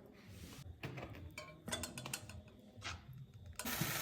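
A few light clicks and knocks of kitchen utensils, then about three and a half seconds in a loud frying sizzle starts suddenly, as food meets hot oil in a pan, and keeps going.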